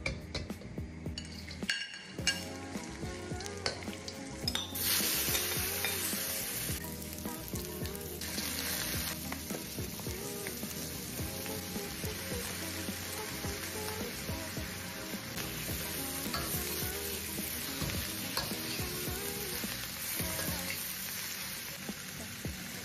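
Vegetables sizzling in a hot wok as they are stir-fried, a metal fork clicking and scraping against the pan. The sizzle jumps louder about five seconds in and then carries on steadily.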